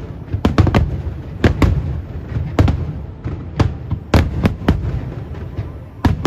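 Aerial firework shells bursting in quick, irregular succession: about a dozen sharp bangs over a continuous low rumble from the barrage.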